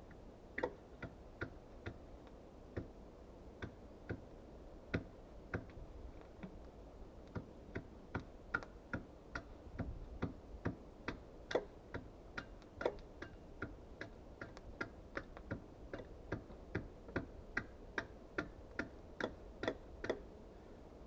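Small axe striking wood in a long run of quick, light strokes, about two to three a second and a little uneven, with a few short pauses.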